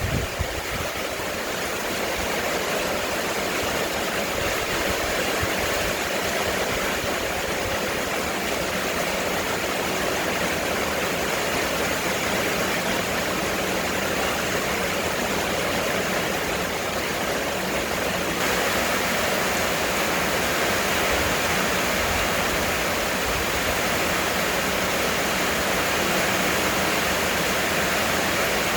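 Heavy rain pouring down in a steady, dense hiss, growing slightly louder about two-thirds of the way through.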